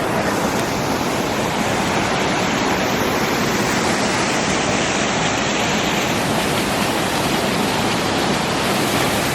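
Rushing water, a steady, loud, unbroken noise.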